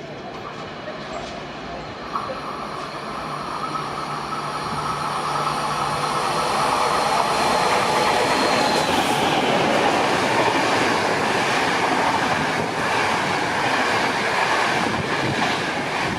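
A train passing through a railway station, its rumble on the rails building up over several seconds and loudest in the middle, with steady high tones riding over the noise.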